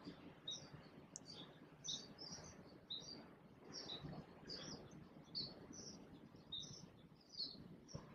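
Faint, short bird chirps repeating about twice a second over a low background hush.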